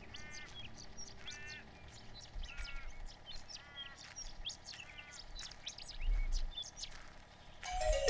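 Outdoor birds calling: a bird gives a short, harsh, nasal call about once a second, six or so times, over faint scattered chirps. Music comes in near the end.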